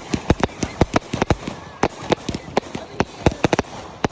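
Consumer fireworks going off in a rapid, irregular string of sharp bangs, about five a second.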